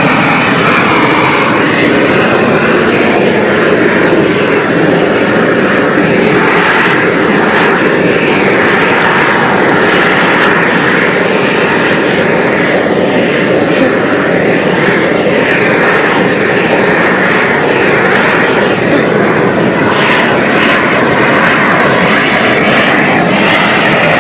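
Torch flame held down on the pavement to burn off spilled transmission fluid: a loud, steady rushing noise that starts abruptly and does not change.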